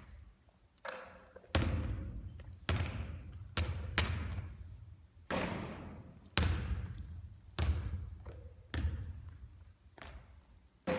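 A basketball bouncing and hitting hard surfaces during repeated three-point shooting, about once a second. Each impact rings out in a long echo.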